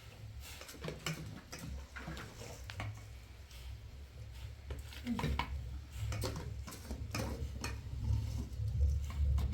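Irregular light clinks and knocks of household things being handled, several a second at times, over a low steady rumble.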